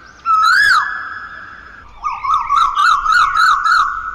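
A shrill whistled call: a swoop up and down that settles into a held note, then a fast warble that rises and falls about six times.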